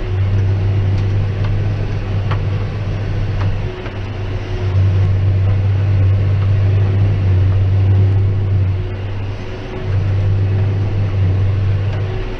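John Deere 6190R tractor running under load while pulling a Claas 3300 baler through straw, a steady low drone that eases briefly twice, around four seconds in and again near ten seconds.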